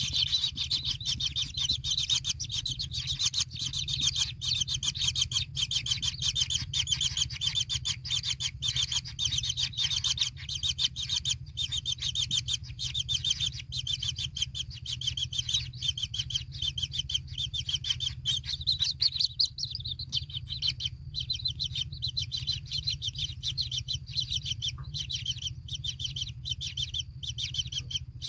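Kingfisher chicks calling in the nest hole: a continuous, rapid run of short high chirps that thins out a little after about twenty seconds, over a low steady hum.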